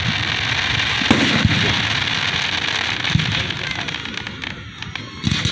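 Aerial fireworks bursting close overhead: a sharp bang about a second in, followed by dense crackling that thins out over the next few seconds, and another bang near the end.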